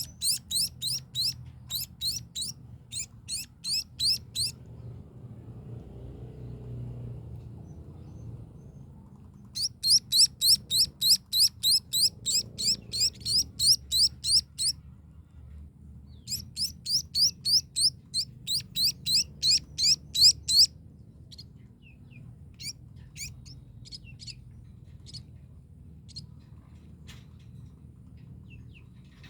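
Baby birds cheeping: rapid, high-pitched chirps of about four a second, in three long bouts, then scattered single chirps near the end.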